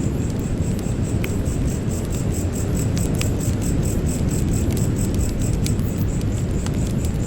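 Campfire crackling, with scattered sharp pops over a steady low rush. A cricket chirps throughout in a fast, even high-pitched rhythm.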